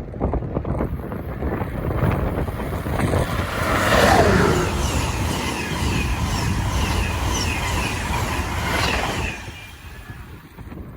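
Train passing at speed: a loud, steady rush of wheels on rail with a quick run of repeating high chirps, falling away sharply about nine seconds in as the train clears.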